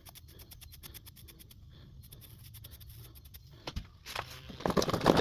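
Battery-powered vibrating toothbrush scrubbing a lawnmower carburetor part clean, a steady low buzz with a rough scrubbing noise that gets much louder about four seconds in.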